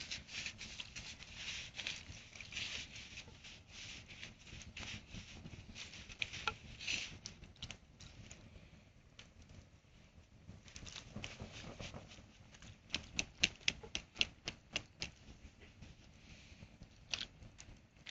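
Small wood fire crackling: faint, irregular pops and snaps, with a quick run of louder pops about thirteen to fifteen seconds in.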